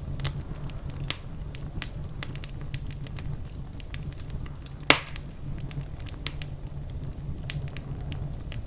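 Wood fire crackling in a fireplace: a steady low rumble of flame with scattered sharp pops and snaps, one much louder pop about five seconds in.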